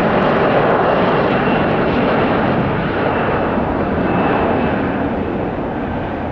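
Jet airliner engines: a loud steady rumble with a faint high whine, easing slightly toward the end.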